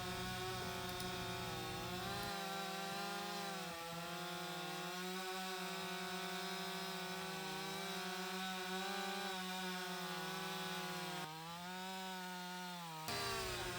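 Two-stroke chainsaw running at high revs while cutting a log, its engine note dipping and recovering as the chain bites into the wood. The sound changes abruptly a couple of times, like joined clips of separate cuts.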